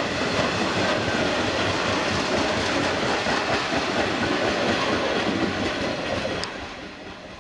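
Freight train of open box wagons rolling past, the wheels clattering and rattling over rail joints and pointwork; the sound fades about six seconds in as the wagons draw away.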